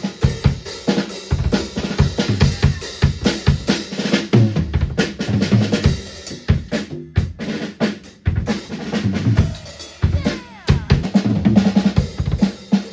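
Drum kit played in a fast, dense beat, with short breaks about seven and eight seconds in.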